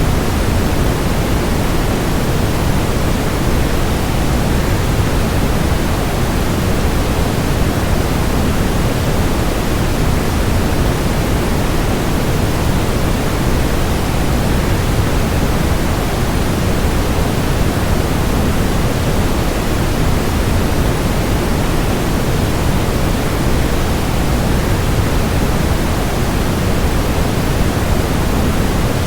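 Steady, unbroken rush of a waterfall blended with white noise, even throughout and heaviest in the low end.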